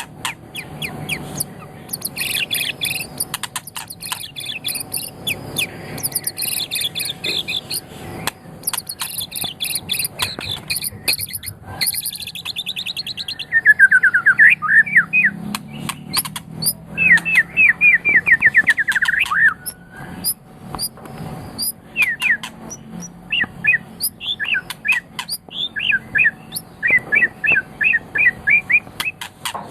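White-rumped shama (murai batu) singing a varied song of fast trills, whistles and sharp clicks. The loudest part, about halfway through, is a run of quick sweeping notes, and near the end the song turns to evenly repeated notes.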